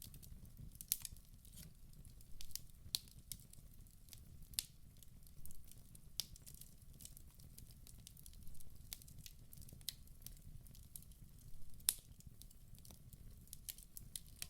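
Wood fire burning in a fireplace: irregular sharp crackles and pops over a low steady rumble, the loudest pop about twelve seconds in.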